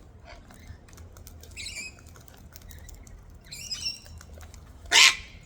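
Wild cockatoos making a few soft high chirps, with light clicking, then one short, loud harsh burst near the end.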